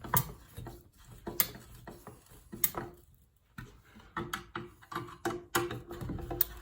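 Scattered sharp clicks and light knocks of small headlight-assembly parts being handled and fitted by hand. There is a near-silent gap a little after halfway, then quicker clicking toward the end.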